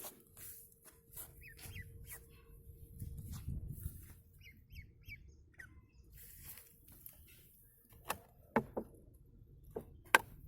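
Ducklings peeping in short, scattered high chirps, with several sharp clicks and taps, the loudest near the end.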